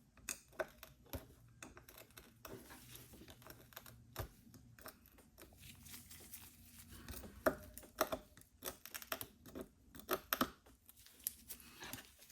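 Pry tool clicking, tapping and scraping against an iPhone SE's back glass as it is worked loose from its heated adhesive. The light, irregular clicks come thicker and sharper in the second half.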